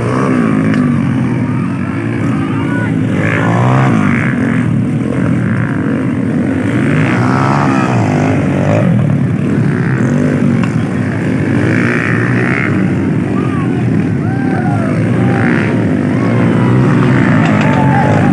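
Motocross bike engines running and revving, several at once, their pitch repeatedly rising and falling.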